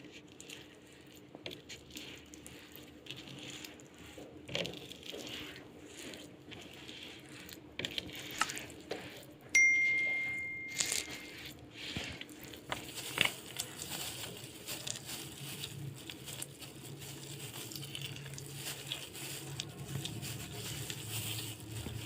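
Kitchen clatter: scattered light clicks and taps of utensils on dishes, with one sharp metallic ding about ten seconds in that rings and fades over a second or so.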